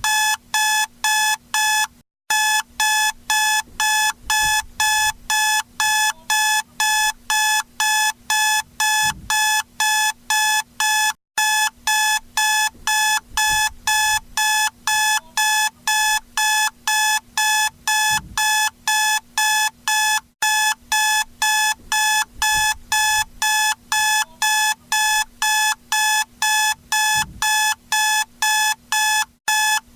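Electronic alarm clock beeping: rapid, evenly spaced short beeps of one high pitch, about three a second, pausing for a moment about every nine seconds.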